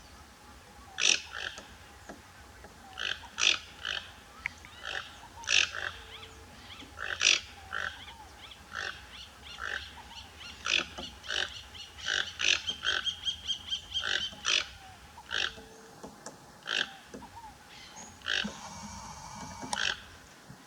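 Wild bird calling: short, harsh calls repeated about once a second, breaking into a faster rattling series midway and a buzzy trill near the end.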